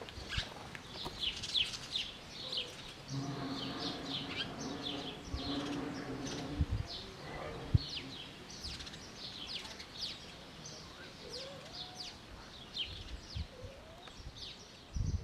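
Small birds chirping, many short high chirps repeating throughout. From about three to seven seconds in, a steady low hum sounds underneath.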